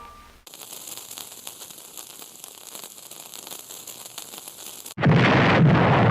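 Cartoon sound effects: a faint crackling hiss for several seconds, then a sudden loud blast about five seconds in that carries on as a heavy rumble.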